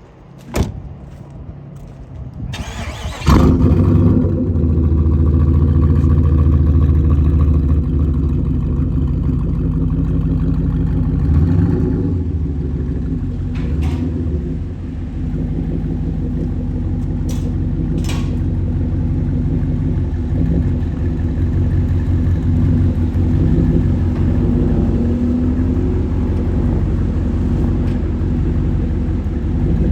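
2008 Impala SS's cammed LS4 V8 cranking and firing up about three seconds in, then running at a steady loud idle.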